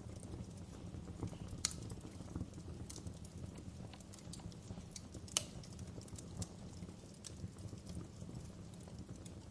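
Wood fire in a fireplace crackling: irregular sharp snaps and pops over a low steady rumble, with two louder pops, one about two seconds in and one about five seconds in.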